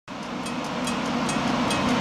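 A train running on rails, with a steady low drone and wheels clicking over rail joints a little over twice a second. It fades in at the start and grows gradually louder.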